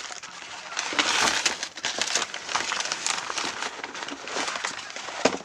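Packaging crinkling and crackling as it is handled, in a dense run of small crackles that stops abruptly near the end.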